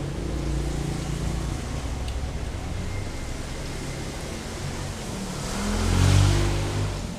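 Road vehicle engine running nearby, then a vehicle passing close: its engine note rises in pitch and loudness to a peak about six seconds in, then fades away.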